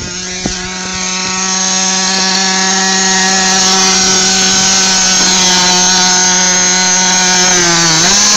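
1/8-scale HSP Tornado RC truck's motor running at a steady high pitch, getting louder over the first two seconds, then dipping briefly in pitch near the end and coming back up.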